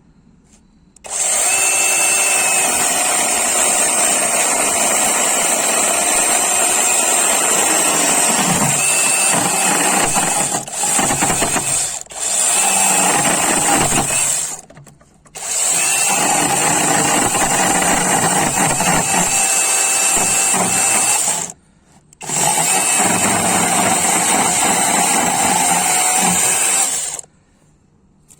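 Cordless battery-powered mini chainsaw running in long bursts, stopping briefly three times. Its pitch sags now and then.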